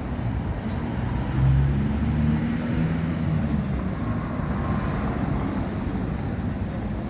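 Steady vehicle engine and road noise, a low rumble that swells briefly about a second and a half in.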